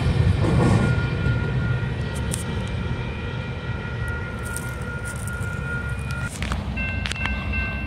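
Train rumbling past with a steady low rumble, thin steady high-pitched tones ringing over it.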